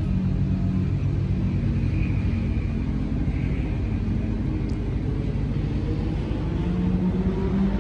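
A car engine running steadily, with a low, even pitch.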